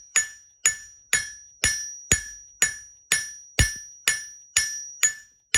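Blacksmith's hand hammer striking hot steel on an anvil in an even rhythm, about two blows a second, about a dozen in all, as the leaf is drawn and spread. Each blow leaves the anvil ringing with a high, sustained tone.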